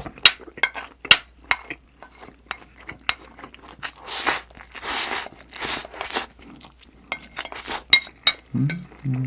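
Close-miked chewing, full of quick crisp clicking crunches, with three longer noisy crunching bursts in the middle. A short hummed 'mm' from the eater comes near the end.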